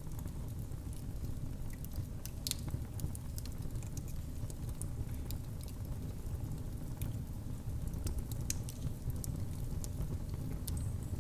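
Wood fire crackling in a fireplace: a steady low rumble of flames with scattered sharp pops and snaps, a louder pop about two and a half seconds in.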